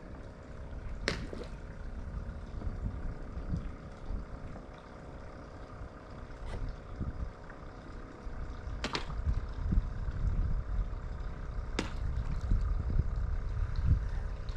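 Low, rumbling wind and water noise around a fishing kayak, with a faint steady hum and four sharp clicks or knocks spread a few seconds apart.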